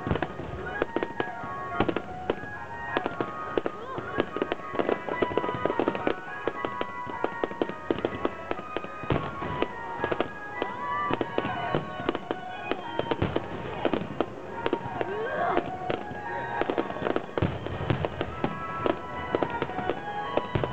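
Fireworks display: a dense, irregular run of crackling pops and bangs, with music playing underneath.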